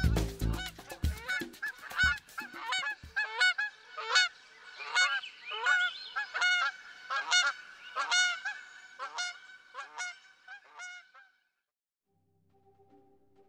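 Geese honking: many short, rapidly repeated calls from several birds overlapping, which stop about eleven seconds in. Background music fades out under the first few seconds of calls.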